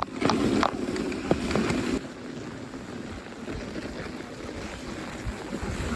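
Dog sled gliding over snow, a steady hiss with wind buffeting the microphone. It is louder with a few light clicks for about the first two seconds, then settles to a quieter, even rush.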